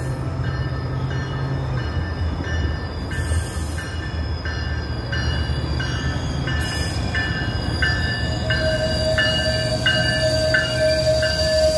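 Tri-Rail commuter train pulling into the station, with a steady low rumble and a bell ringing about one and a half times a second. About eight seconds in, a steady high squeal starts and grows louder as the train slows.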